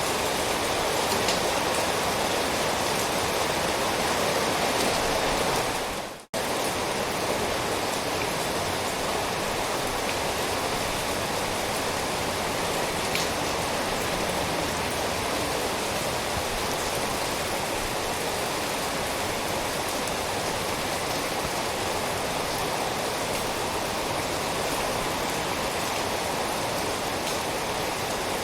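Steady, dense rainfall. About six seconds in it fades away to a moment of silence and then comes straight back, like an edit or loop join in the recording.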